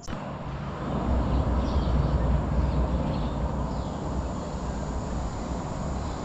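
Wind rumbling and buffeting on the microphone at the top of a tall lookout tower, a fluctuating low rumble that starts abruptly.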